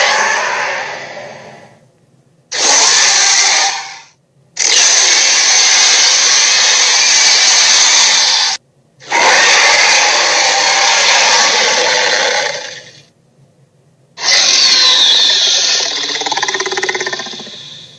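Dinosaur roar sound effects: a series of loud, harsh roars, each lasting one and a half to four seconds, the first fading out at the start and four more following with short pauses between them.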